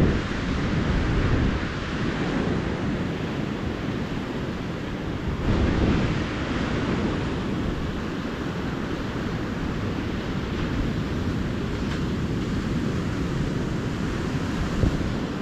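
Ocean surf on a beach: waves breaking and washing in a steady wash, swelling louder about a second in and again about six seconds in.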